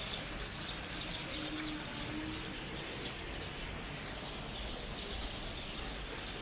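Steady rain, with a dove cooing briefly about two seconds in.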